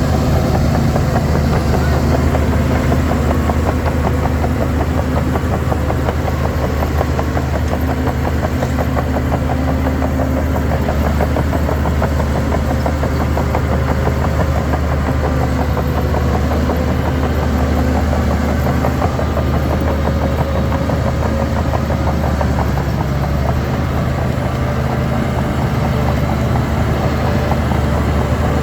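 Heavy diesel engine of earthmoving machinery running steadily, a deep hum with rapid firing pulses and only slight changes in pitch.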